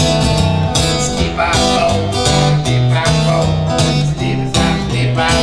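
Live folk music in an instrumental break: strummed acoustic guitar over a stepping low line, with a short sung scat syllable about a second in.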